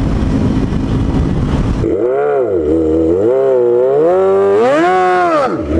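Wind rushing over the microphone with an engine under it for about two seconds. Then the wind drops away and a motorcycle engine is heard clearly, revving up and down several times.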